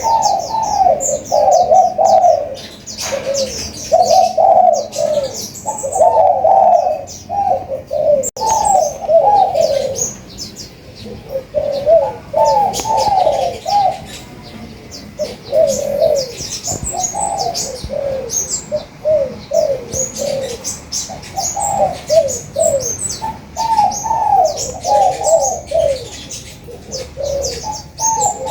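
Spotted doves cooing in repeated, overlapping phrases, with quick, high chirps of sunbirds over them.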